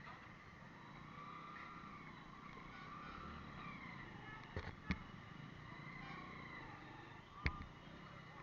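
Faint road-vehicle noise with slowly rising and falling engine tones, broken by a few sharp clicks about halfway through and near the end.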